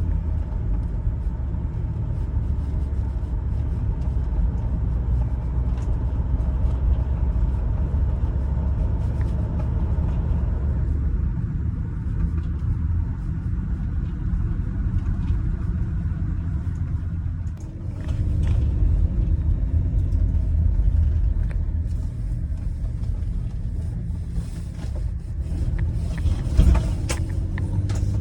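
2004 Chevrolet Venture minivan's 3400 V6 engine running under way with steady low road rumble, easing off briefly partway through, with a short sharp knock near the end.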